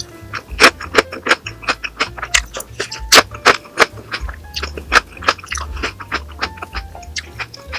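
Close-miked eating of crunchy food: sharp, irregular crunches several times a second, over soft background music.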